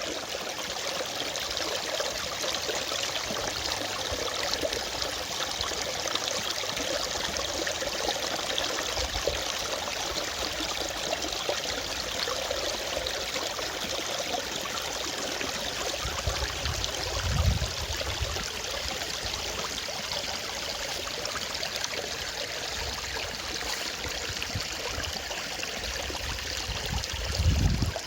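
Small forest stream flowing over rocks, a steady rush of water. Two brief low rumbles break in, one about two-thirds through and one at the very end.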